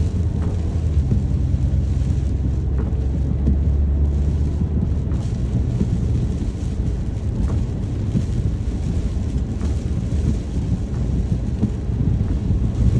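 Rain ambience under a deep, continuous rumble, with a low steady hum for the first five seconds or so.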